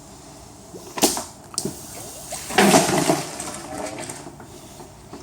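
Prototype air-powered flush on a Dometic 310 toilet flushing about a pint of water up the evacuation pipe: a sharp click about a second in, then a loud, short rush of air and water that tails off over a second or two.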